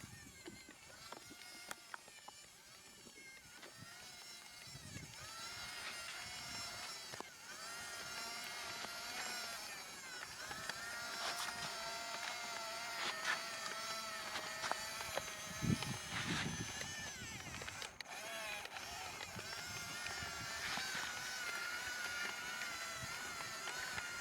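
Small electric motors and gearboxes of radio-controlled construction models whining, the pitch rising and falling over and over as they speed up and slow down, with a couple of low thumps about two-thirds of the way in.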